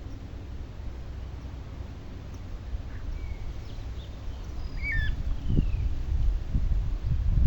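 Scattered short bird chirps and whistles at dawn, over a steady low rumble that turns into louder low thumps and bumps in the last couple of seconds.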